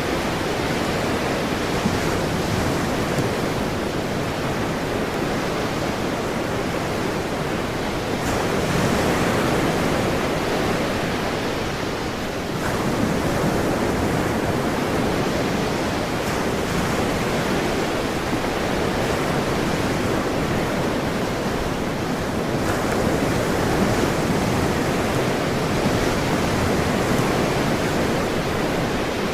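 Ocean surf: a steady wash of breaking waves, swelling and easing slowly every few seconds.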